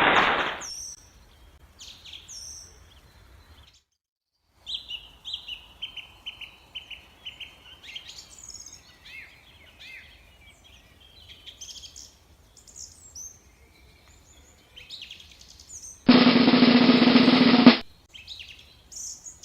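Birds chirping and calling in many short, high notes and quick call series. About sixteen seconds in, a loud noisy burst of under two seconds cuts in and stops abruptly.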